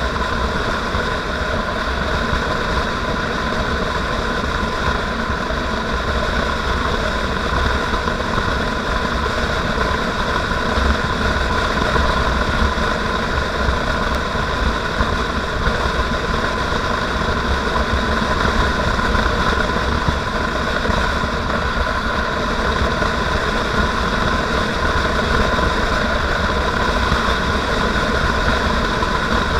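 Motorcycle engine running steadily during a ride, its note holding even throughout, over a constant low rumble.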